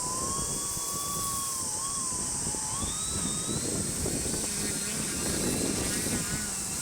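Electric motor and propeller of a Skywing Sbach 342 3D foam RC airplane whining in flight, its pitch wandering up and down with the throttle, over a steady high hiss.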